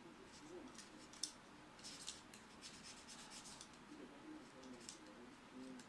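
Faint, short scratching and rubbing strokes in quick clusters, as of brushing or wiping small parts by hand, with a sharp click a little over a second in.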